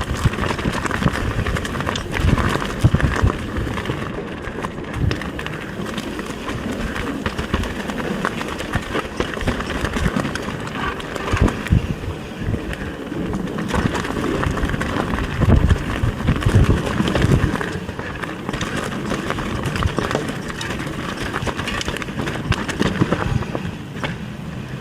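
Mountain bike riding along a dirt forest trail: continuous tyre and wind noise with irregular knocks and jolts as the bike rolls over the rough, branch-strewn ground.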